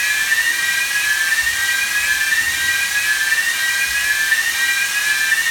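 Ship's engine-room ventilation fans running to pressurize the space: steady rushing air with a high whine that wavers slightly in pitch.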